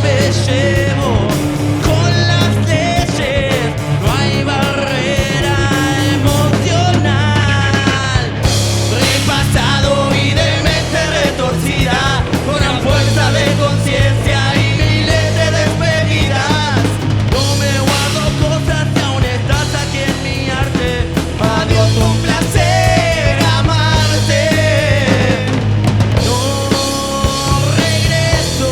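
Live rock band playing, with drums, bass and guitar, and what sounds like singing over the top.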